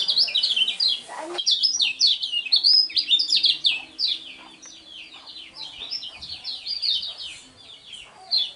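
A kecial kuning songbird singing a fast, unbroken run of short falling chirps, loudest in the first four seconds and softer after that.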